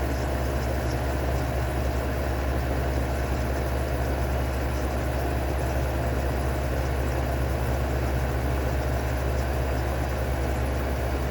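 Amana dehumidifier running: a steady low compressor hum under the even rush of its fan, with a thin steady whine.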